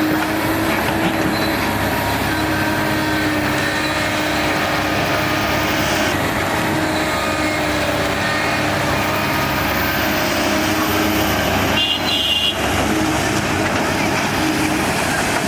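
Diesel engine of heavy earthmoving machinery running steadily under load. A brief high squeak comes about twelve seconds in.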